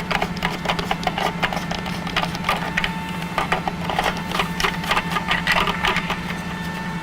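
Impact gun running with a steady motor hum under rapid, uneven rattling clicks, spinning lug nuts off a truck's rear wheel.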